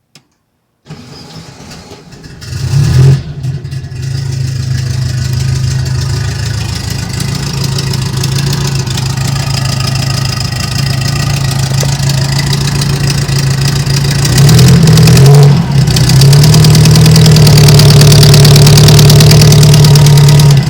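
Turbocharged air-cooled VW Beetle flat-four cranked over and catching about two and a half seconds in, then running steadily, with a brief change in speed near the end and a louder, steadier run after it until it cuts off. The exhaust ticks from a blown exhaust gasket leaking at the cylinder head, a sound the owner first took for a misfire.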